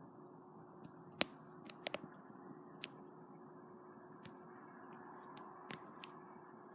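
A handful of sharp, dry clicks, the loudest about a second in and a quick pair near two seconds, over a faint steady hiss with a thin steady hum.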